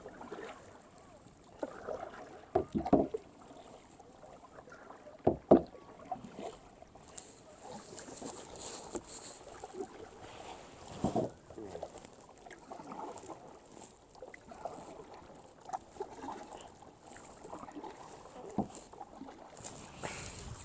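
Kayak being paddled: irregular paddle strokes splashing and dripping in the water, with a few louder splashes or knocks a few seconds in, about five seconds in and around eleven seconds.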